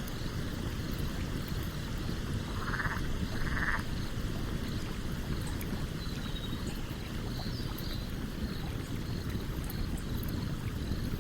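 A stream runs steadily beside a campfire, and the fire crackles lightly. About three seconds in there are two short animal calls, one after the other.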